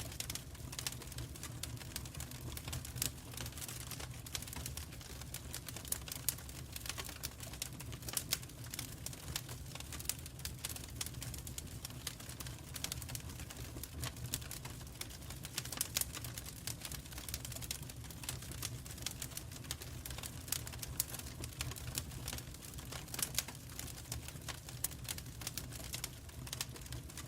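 Fire in a fireplace crackling: dense, irregular snaps and pops over a low, steady rumble.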